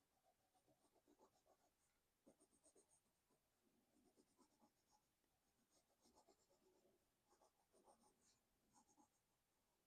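Faint scratching of coloured pencil strokes on sketchbook paper, in quick back-and-forth runs of several strokes a second with short pauses between runs.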